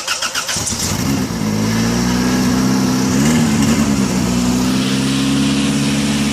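Toyota Corolla four-cylinder engine cranking with rapid even starter pulses, catching about a second in and settling into a steady idle, with a brief rise and fall in engine speed around the middle. The car starts now that the repaired positive battery terminal makes a tight contact.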